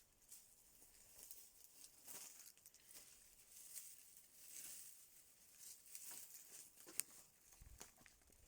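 Faint rustling and crackling with scattered small clicks, and one sharp click about seven seconds in.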